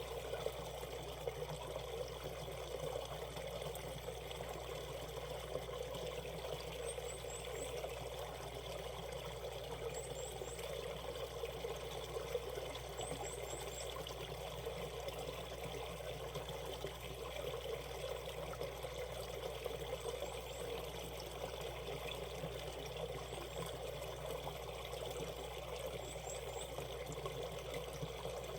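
Valley stream shallows running in a steady, even rush of water, with faint high chirps, likely a small bird, a few times every few seconds.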